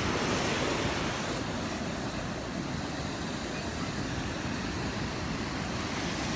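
Gulf surf washing onto the beach, a steady rushing noise that swells slightly at the start.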